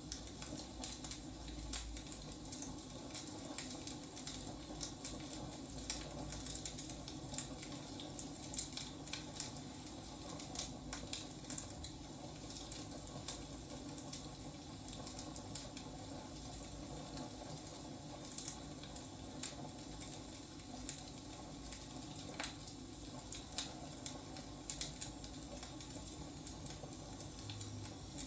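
Wood fire crackling: irregular sharp pops and snaps from burning logs over a soft steady hiss.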